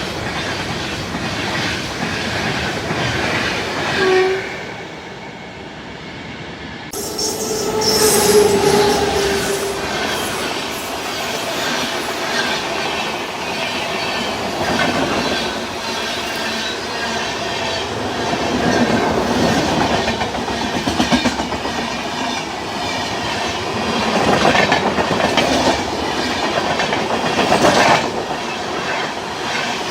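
An Indian Railways train running through, its wheels clattering over the rail joints with some squealing from the wheels. The sound drops back around five seconds in, then returns suddenly about two seconds later.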